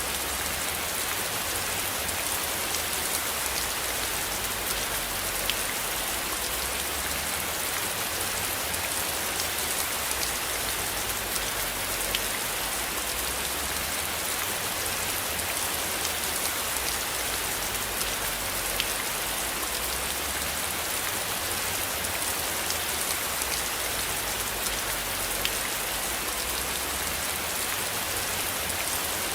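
Steady rain falling, with scattered individual drops ticking through the hiss and a faint low rumble underneath.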